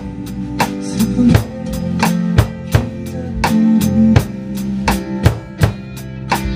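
Acoustic drum kit played in a steady groove, kick and snare hits about three a second, along with a backing track of a worship song whose bass and keyboard notes hold underneath.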